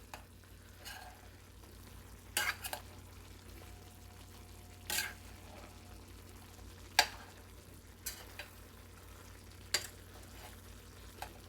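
A spoon or spatula stirring partly cooked chicken in a pan, scraping and knocking against the pan every second or two, the sharpest knock about seven seconds in, over a faint steady simmer of the chicken in its own released juices.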